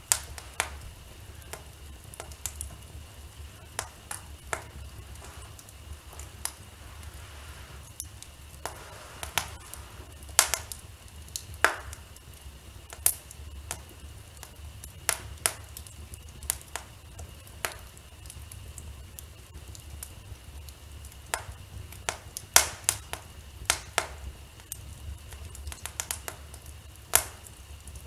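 Wood fire crackling in a fireplace: irregular sharp pops and snaps, some louder than others, over a steady low background.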